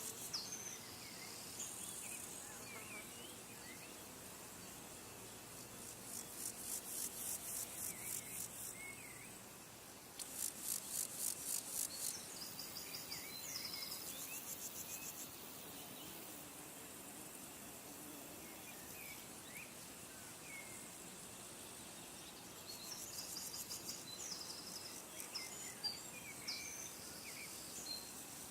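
Wild birds give short chirps now and then over a steady faint outdoor hiss. Three times, a very high trill pulsing several times a second comes in for a few seconds and stops.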